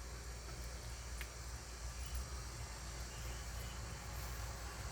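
Outdoor background with faint insects chirring and a steady low rumble underneath.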